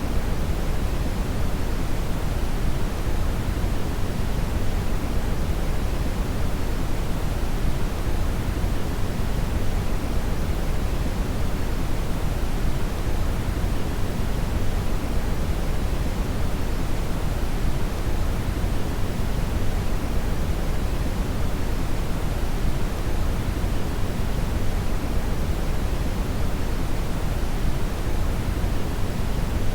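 Steady brown noise (red noise), a deep, even rumble-like hiss with most of its energy in the low end, unchanging throughout.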